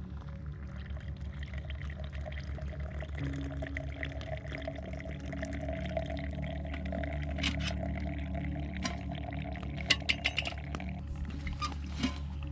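Liquid being poured, with a steady low hum beneath, and a few sharp clicks near the end.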